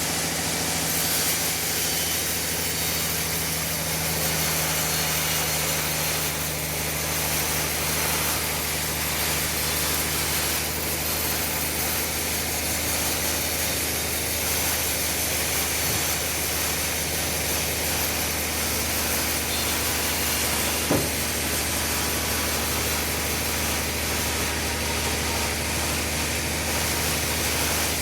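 Sawmill running steadily: a low engine drone under a broad high hiss of the saw, with one sharp knock about three-quarters of the way through.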